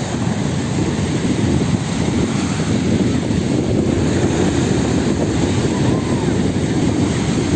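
Wind buffeting the microphone over the sea, a steady low rumble with the wash of water beneath it.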